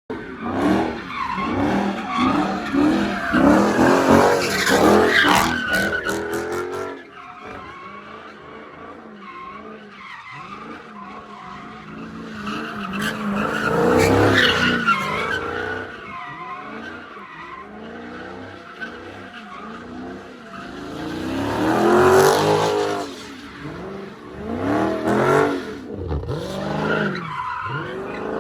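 Car engine revving hard while its tyres squeal and skid, as in doing donuts. It comes in waves, with the engine pitch rising and falling: loudest over the first seven seconds, then surging again about halfway through and twice near the end.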